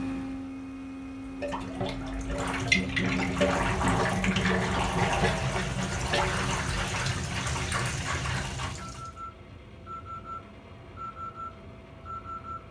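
Water rushing through a household fixture for about seven seconds, then cutting off suddenly. After it, short electronic beeps repeat about once a second.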